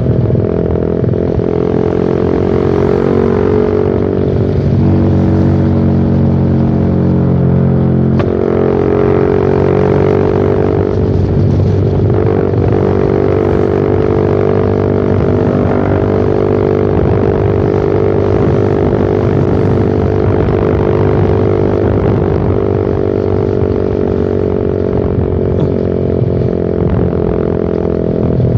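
Suzuki Satria FU Fi's single-cylinder four-stroke engine running through a short Pro Liner aftermarket muffler with the dB killer removed, heard on the move: a steady exhaust drone whose pitch falls and rises a few times with the throttle.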